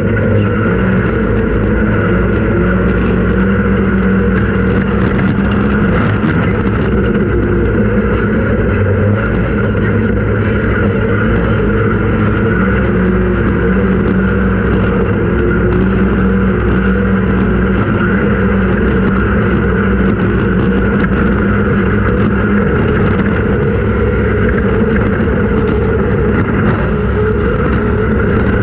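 Off-road race vehicle's engine running steadily at a fairly even pitch, with no big revs or stops.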